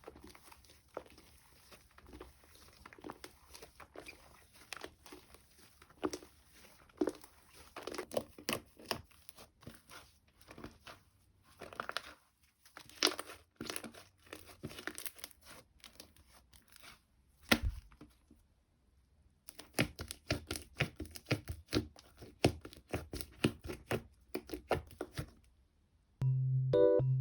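Slime being squeezed, stretched and pressed by hand, giving rapid runs of small crackling, popping and squelching clicks that stop briefly in the middle. Light piano music begins near the end.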